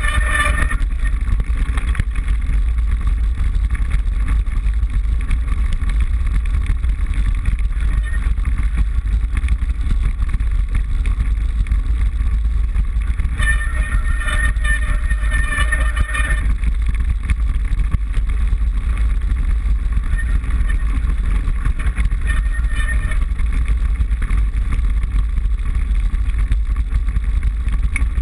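Mountain bike riding noise picked up by a handlebar-mounted GoPro in its housing: a loud, steady low rumble of wind and vibration. A higher-pitched buzz comes in briefly near the start and again for a few seconds around the middle.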